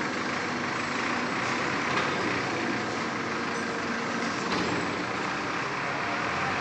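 Steady truck and city street noise, with a truck engine running.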